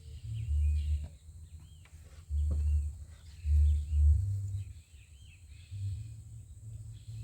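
Small birds chirping repeatedly, over irregular low rumbling buffets that are loudest about two and a half and three and a half seconds in.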